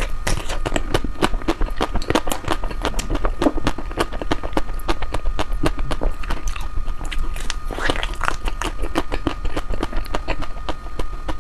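Mouth sounds of someone eating ice cream close to the microphone: many quick clicks and smacks of licking and chewing. A thin steady tone and a low hum sit underneath.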